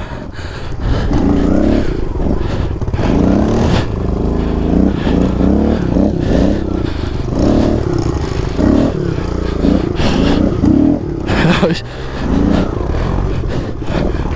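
Kawasaki KLX110 pit bike's small single-cylinder four-stroke engine being ridden, revving up and dropping back again and again in short blips, with a few sharp knocks and rattles.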